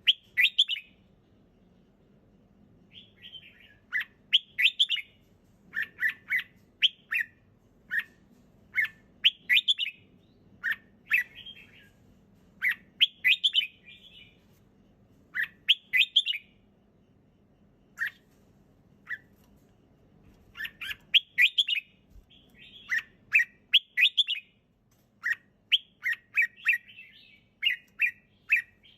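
Red-whiskered bulbul singing: short, clear whistled phrases repeated every second or so, with a short pause about two-thirds of the way through.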